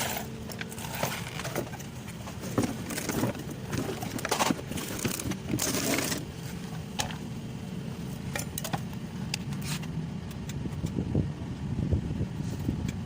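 Scattered clicks, knocks and scrapes over a steady low hum.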